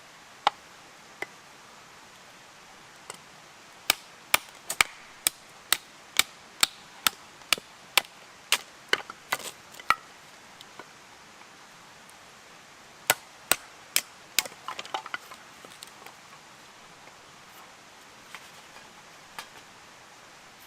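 Firewood being chopped: a steady run of sharp wooden knocks, about two a second, then after a pause four more strikes and a brief clatter of smaller knocks.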